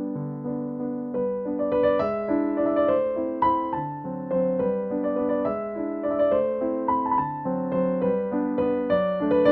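Gentle background music on piano: a melody of single notes over sustained lower chords.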